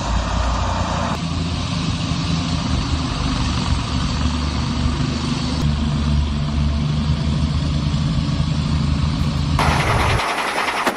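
Twin Vanguard engines of a homemade GMC Jimmy snowblower rig running steadily under load, a continuous drone with a steady hiss above it. Near the end the sound changes abruptly to a thinner hiss without the low drone.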